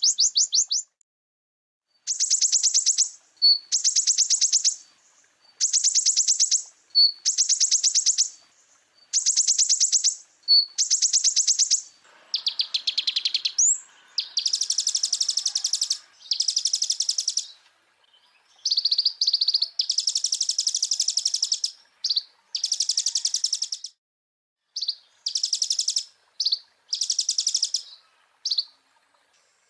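Konin (kolibri ninja) sunbird singing: rapid, high trilled phrases about a second long, repeated every second or two with short gaps between them.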